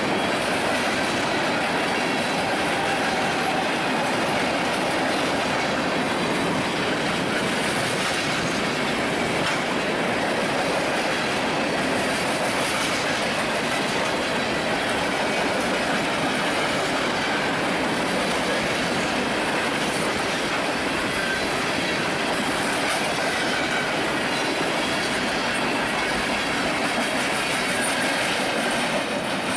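Railroad cars rolling past at a steady pace: an even, continuous noise of wheels on rail, with faint high wheel squeal.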